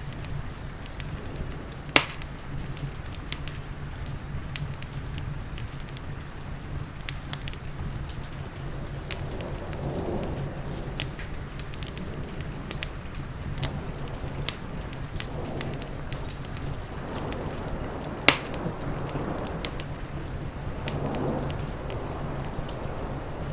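Wood fire crackling with scattered small pops and two sharp, louder pops, over a steady hiss of rain.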